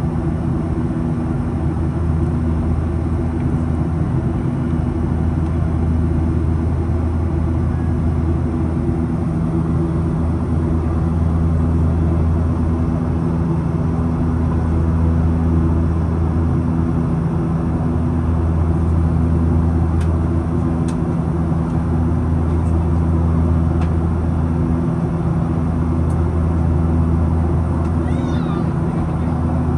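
Steady cabin drone of a Boeing 737-800 in flight: the CFM56 engines and rushing airflow, with a deep constant hum underneath. A few faint, high, wavering squeaks come near the end.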